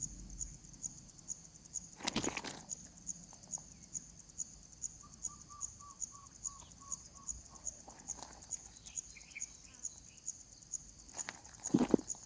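Insect chirping steadily in a high pitch, about three chirps a second. In the middle comes a short run of about ten quick, even notes. Rustling knocks sound about two seconds in and, louder, near the end.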